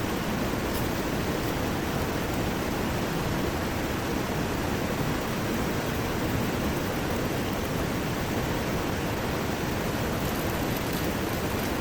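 Steady, unbroken noise of heavy rain mixed with rushing river water.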